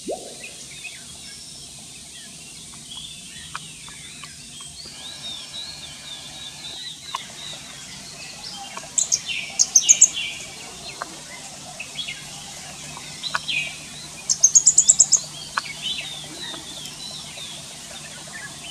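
Wild birds calling: a steady scatter of short high chirps, broken twice, about nine and fifteen seconds in, by a loud quick string of very high, sharp notes.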